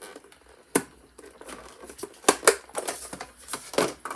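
Plastic packaging of a model train car crinkling and snapping as it is pried apart, with a sharp snap about a second in, two more close together past the two-second mark and another near the end.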